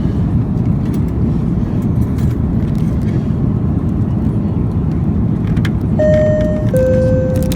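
Steady low rumble of an Airbus A350-900's cabin noise, with a two-note descending cabin chime about six seconds in.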